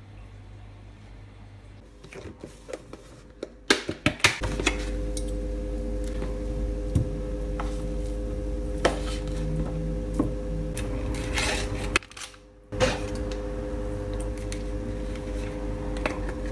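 Clicks and clatter of kitchenware, then a small electric kitchen appliance's motor switched on and running with a steady hum. It stops briefly about twelve seconds in and starts again.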